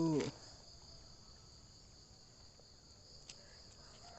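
Crickets chirping in a steady high-pitched chorus. A louder pitched call breaks off just at the start, and one faint click comes near the end.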